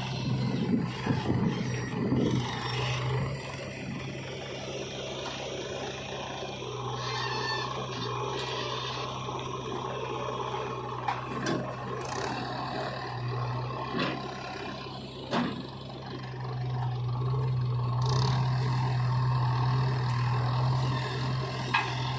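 Diesel engine of a JCB 3DX backhoe loader running steadily under work, growing louder about three quarters of the way through. A few sharp knocks come in the middle.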